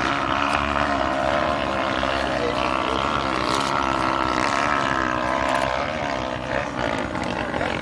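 Off-road trail motorcycle engines running, their pitch wavering up and down as the throttle changes.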